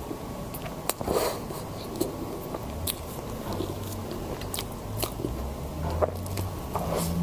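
Close-miked biting and chewing of crisp food: irregular sharp crunches and clicks, the loudest about a second in.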